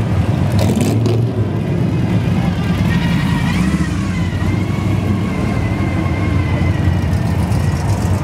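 Engines of classic cars and hot rods rumbling steadily as they drive slowly past, one after another. A faint high whine joins about three seconds in and holds until near the end.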